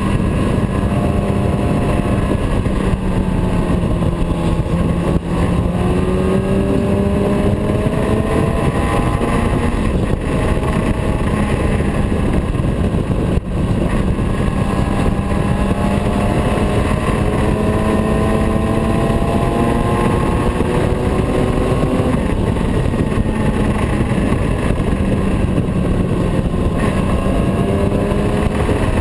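Motorcycle engine running under way, its pitch slowly rising and falling with the throttle, over a loud, steady rushing noise.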